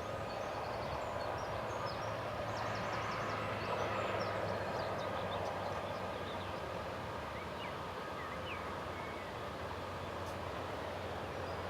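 Two diesel locomotives hauling a long 15-inch-gauge passenger train, heard as a steady engine drone with a rumble of wheels and coaches that swells a little a few seconds in.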